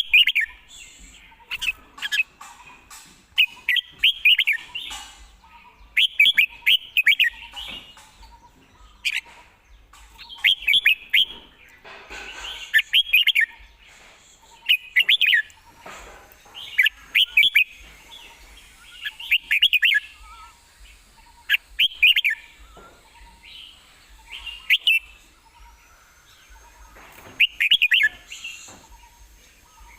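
Red-whiskered bulbul singing: short, fast warbled phrases repeated every second or two with brief pauses between them.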